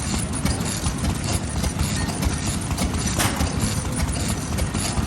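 Vintage Japanese stationary engines (hatsudoki) running, a fast, uneven run of firing beats and knocks over a low rumble.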